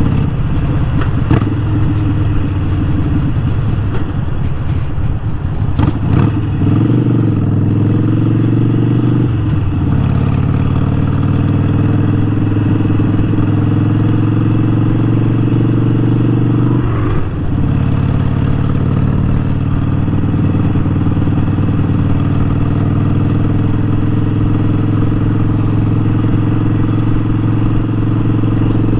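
Harley-Davidson Sportster 1200's air-cooled V-twin engine running on the road under way. The engine note stays steady apart from a few brief breaks where the pitch shifts.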